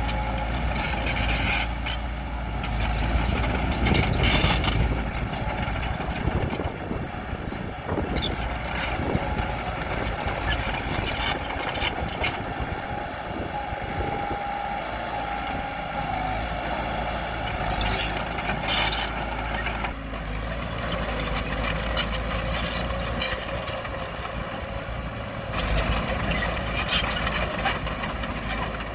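Bulldozer working: its diesel engine runs steadily under load while the steel tracks clank and rattle, with a brief squeal around the middle.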